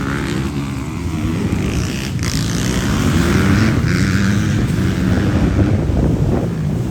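Motocross bike engines on a race track, revving and easing off so that their pitch keeps rising and falling.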